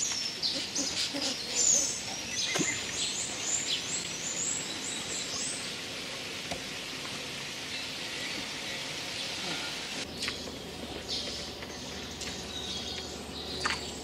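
A bird singing: a quick run of short, high chirps and slurred notes for the first five seconds, then further calls after about ten seconds, over a steady outdoor hiss. A single sharp click sounds about two and a half seconds in.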